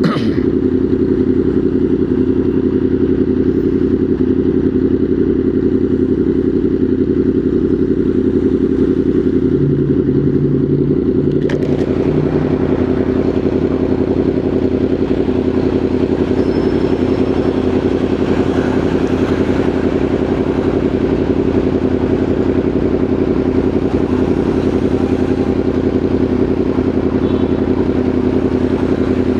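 Motorcycle engine running at a steady speed while riding. A rushing wind-and-road noise grows louder about eleven seconds in.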